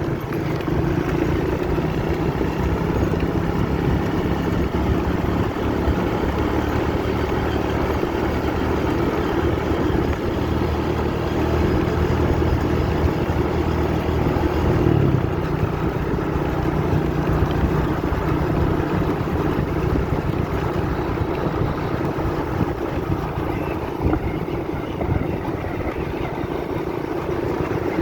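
Small motorcycle engine running steadily under way, its pitch shifting about halfway through as the throttle or gear changes.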